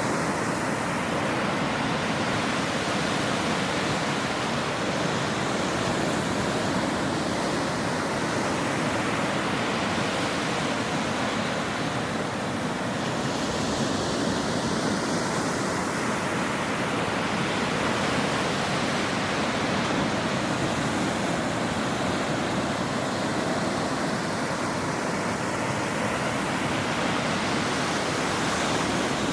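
Ocean waves washing on a shore: a steady, dense rush of surf noise whose hiss gently swells and eases every several seconds.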